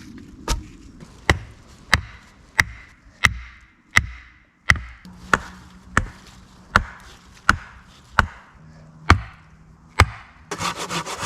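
A blade chopping a point onto the end of a wooden stake: about fourteen sharp strikes at an even pace, roughly one and a half a second.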